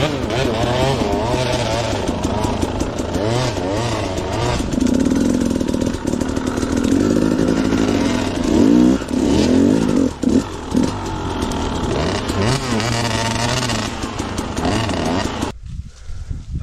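Two-stroke dirt bike engine revving up and down under load, its pitch rising and falling, loudest around the middle. Near the end the engine sound drops away abruptly.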